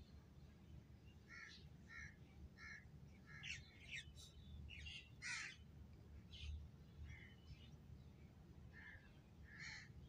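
Near silence with faint bird calls in the background: a series of short calls, some in quick succession, over a low steady hum.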